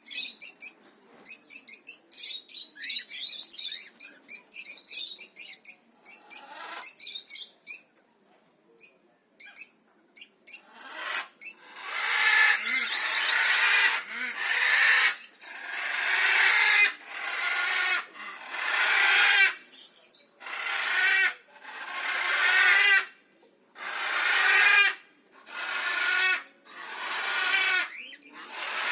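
Cockatiels calling: quick high chirps for the first several seconds, then, after a short lull, a run of longer chattering calls repeating about every second and a half.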